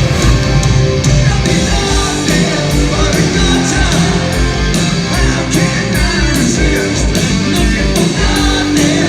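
Rock band playing loud and live: electric guitar and drums keeping a steady beat.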